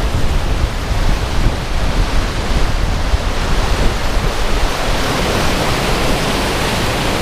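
Steady rushing noise of a spillway running high with storm runoff, with wind buffeting the microphone in uneven low gusts.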